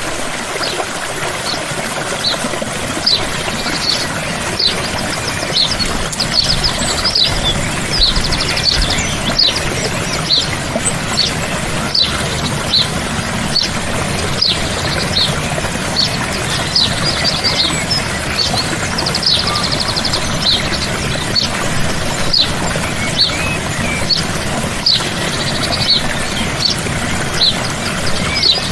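Woodland stream running steadily, with small birds singing over it: many short high chirps and a few quick trills.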